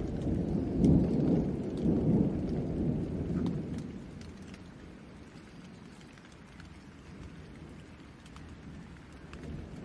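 Thunder rumbling low, swelling twice and dying away about four seconds in, over steady rain with scattered drops ticking.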